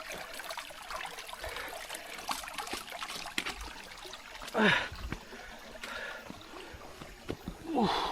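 Shallow river water running and trickling, with splashes as a person wades across; two louder splashes come about halfway through and near the end.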